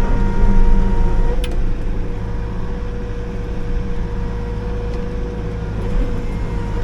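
Liugong 9051F mini excavator's diesel engine running under load, with a steady hydraulic whine. A sharp click comes about a second and a half in, after which the sound eases slightly.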